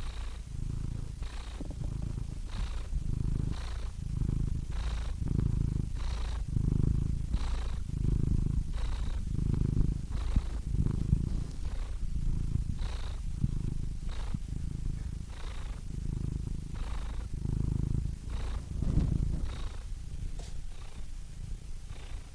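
Domestic cat purring close up, a steady low rumble that swells and fades in even pulses a little under a second apart.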